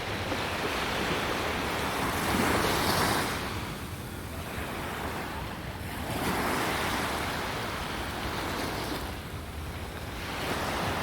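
Sea waves breaking on a beach, the surf swelling and fading about every four seconds, with wind rumbling on the microphone.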